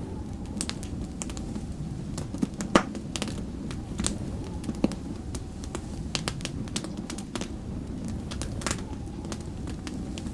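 Wood fire crackling, with irregular sharp pops and snaps and one louder pop a little under three seconds in, over a steady low rumble of snowstorm wind.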